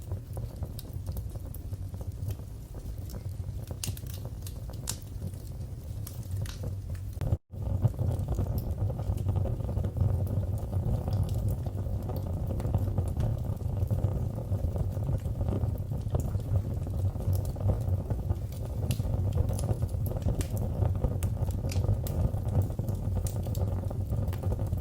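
Wood fire in a fireplace crackling, with scattered sharp pops and clicks over a steady low rumble. The sound cuts out for an instant about seven seconds in, then carries on slightly louder.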